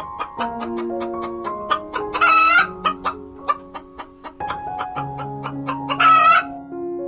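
Chicken calling: a rapid run of short clucks, with two loud harsh calls of about half a second each, about two seconds in and near the end. Soft piano music plays underneath.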